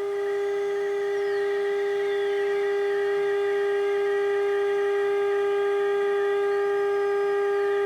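Steady test tone from a signal generator's modulation, heard through the 1948 Emerson 543 AA5 radio's speaker during alignment, getting slightly louder about a second in as the stage is peaked.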